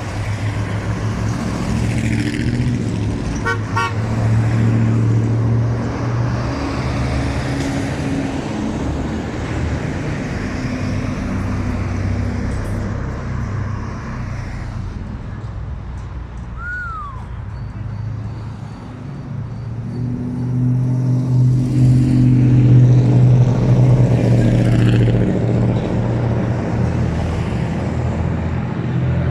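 Heavy trucks' horns sounding in long, steady low blasts over running traffic, strongest in the last third. A brief falling whistle cuts through about halfway.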